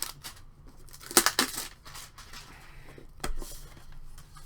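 Hockey cards being worked out of a small metal card tin: a short scraping rustle about a second in, then a single sharp click about three seconds in.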